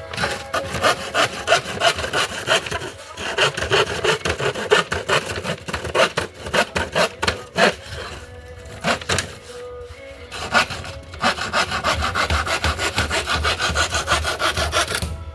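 Handsaw cutting through wood in quick, regular back-and-forth strokes, with brief pauses about three seconds in and again around nine to ten seconds.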